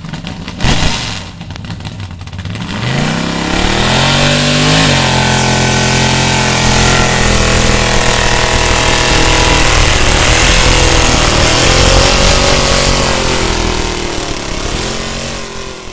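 Car engine revving: a couple of sharp pops in the first second, then the revs climb steeply and hold high and steady, easing off briefly twice near the end.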